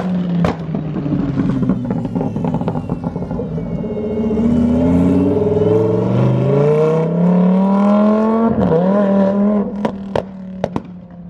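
A car engine revving hard, its pitch climbing steadily for about five seconds, dipping briefly, then held high. Several sharp pops or cracks follow near the end.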